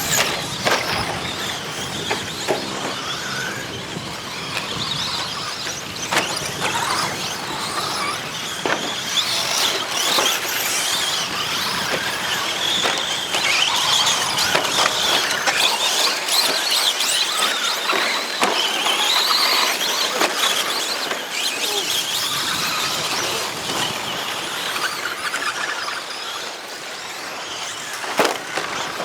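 Several RC short course trucks running on a dirt track, their electric motors whining high and rising and falling in pitch as they speed up and slow, with scattered short knocks from landings and contact.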